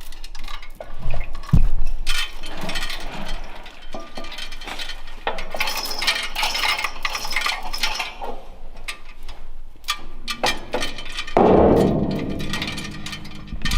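Metal tools and parts clinking and knocking during work on a tractor's clutch, with a louder, longer metallic rattle about eleven seconds in.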